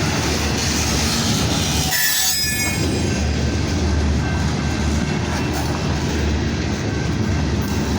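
Kansas City Southern freight train of boxcars and tank cars rolling slowly past: a steady rumble and rattle of steel wheels on the rails.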